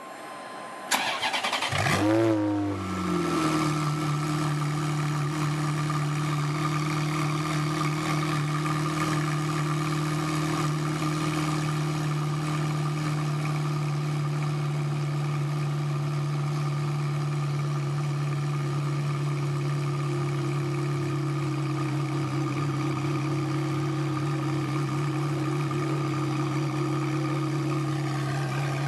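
Ferrari F430 Challenge's V8 firing up about a second in, flaring briefly and then settling into a steady idle.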